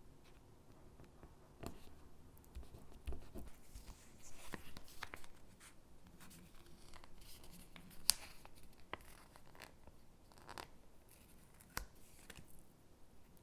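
Stickers being peeled and pressed onto paper gingerbread cutouts: soft paper rustling and scratching with scattered light clicks, the sharpest about eight seconds in.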